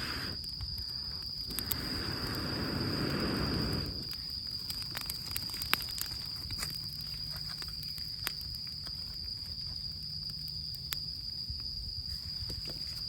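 An insect trilling steadily on one high note, over sparse crackles and pops from a campfire of rain-soaked wood. A rushing noise swells for about two seconds near the start, then stops.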